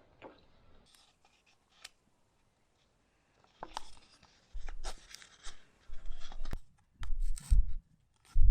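Hands handling a cut-down plastic cup seed feeder: rustling, crinkling and clicking. It is nearly quiet with a few clicks for the first three seconds or so, then busier handling noise with low thumps through the second half.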